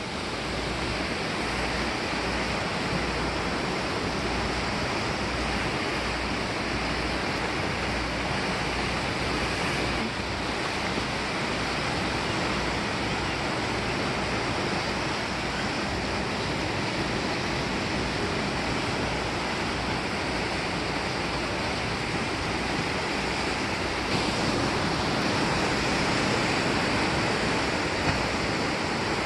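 Ocean surf: a steady rush of breaking waves, with wind rumbling on the microphone.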